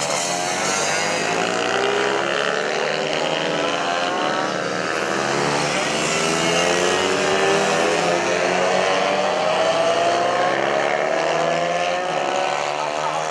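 Several mini-bike racing engines running together, their pitches rising and falling and overlapping as the riders accelerate and back off around the track.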